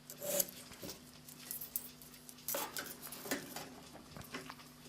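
Hand file making a few light, short, irregularly spaced strokes on the end of a steel clock mainspring, carefully taking off a small lip.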